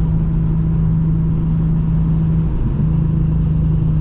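Infiniti G37x's 3.7-litre V6 engine and road noise at a steady cruise: an even low drone with a brief wobble in pitch a little past halfway.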